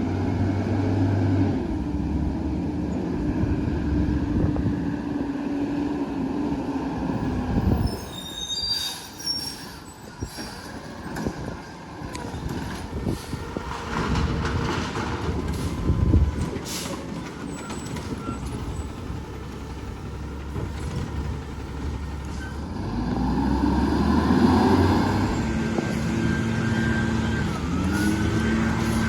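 A garbage truck at work. Its engine runs steadily, then drops away. A long stretch of clattering knocks follows, with brief high metallic squeals. Near the end the engine runs up again with rising and falling tones.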